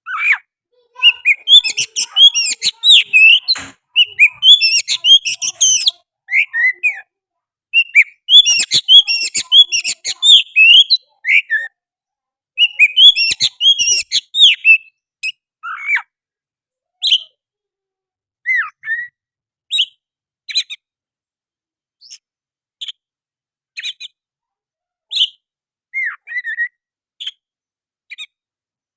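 Oriental magpie-robin singing: dense runs of rapid, varied whistled phrases for about the first fifteen seconds, then sparser single whistled notes and chirps spaced a second or two apart.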